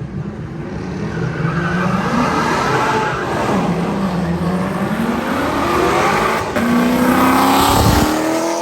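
A car engine revving hard while the car spins donuts, its pitch swinging up and down over a rushing tyre noise. Near the end the revs climb steadily.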